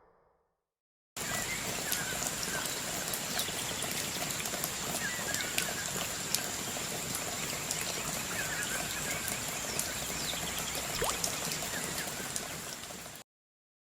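Steady rain falling in a forest, with many small drop impacts through a constant hiss, a thin steady high-pitched tone, and a few short bird chirps. It starts abruptly about a second in and cuts off suddenly near the end.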